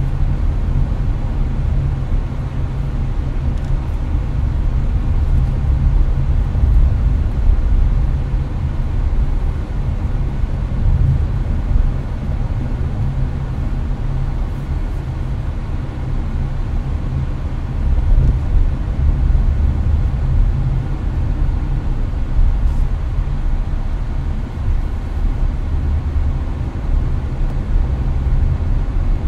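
Steady low road and engine rumble inside a Hyundai Avante's cabin at highway speed, with the air conditioner's fan running.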